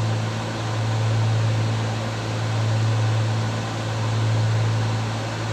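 The twin engines and propellers of a Cessna 310 droning steadily in cruise flight, a deep hum under a broad rushing noise. The loudness swells and fades slowly, about every second and a half.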